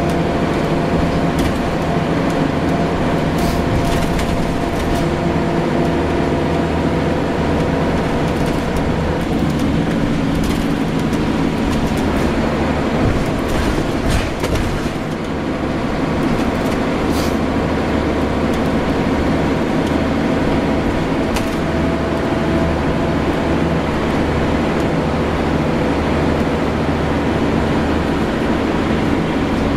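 Diesel engine of a Scania L94UB single-deck bus running steadily, with a brief dip in level about halfway through and scattered light clicks and rattles.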